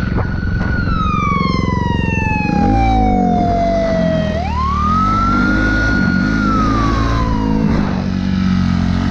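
Police siren wailing slowly: the pitch falls over about three seconds, sweeps back up sharply, holds, then falls again. An engine runs and revs underneath.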